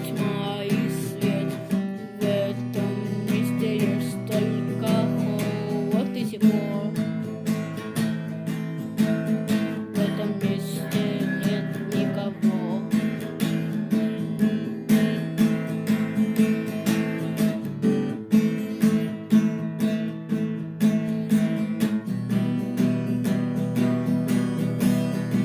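Instrumental section of a song: strummed guitar chords with a lead guitar melody over bass and a steady drum-machine beat.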